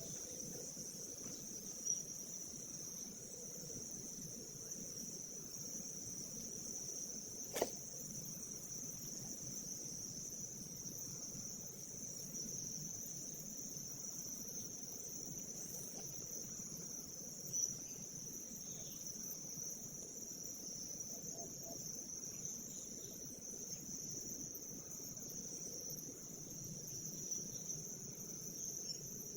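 Steady, high-pitched insect chorus buzzing without a break, with a single sharp click about seven and a half seconds in.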